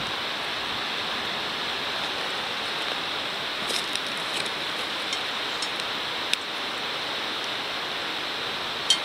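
Wood fire burning in a wireframe fire pit: a few sharp crackles and pops, the clearest about six seconds in and near the end, over a steady rushing hiss.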